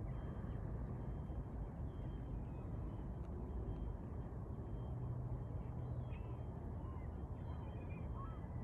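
A steady low rumble with a faint hiss throughout, and several short bird calls in the last few seconds.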